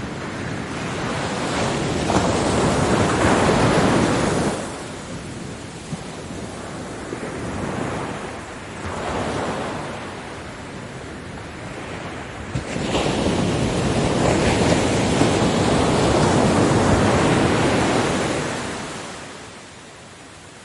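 Ocean waves breaking and washing up a beach in repeated swells. One surge builds about two seconds in and falls away, smaller ones follow, and a long, loud wash arrives about halfway through and dies down near the end.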